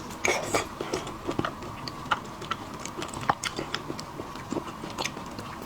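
Close-miked chewing of seafood: irregular wet clicks and smacks of mouth and food, several a second.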